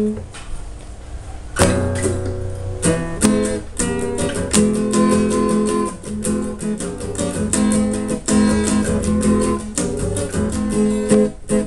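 Acoustic guitar strummed in a fast, steady rhythm, chords ringing. After a single chord at the start, the strumming begins in earnest about a second and a half in.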